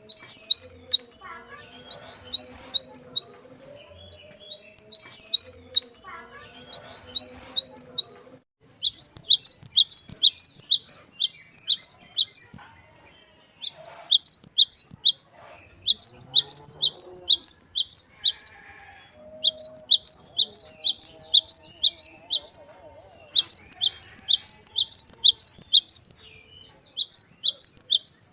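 Cinereous tit (glatik batu) singing: bouts of rapid, high, sharp repeated notes, each bout lasting one to three seconds, with short pauses between them.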